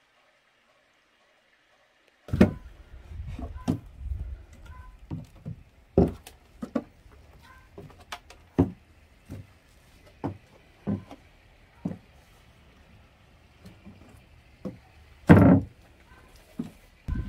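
After about two seconds of near silence, a run of irregular knocks and thuds begins, typical of firewood being handled, with one heavier thud near the end.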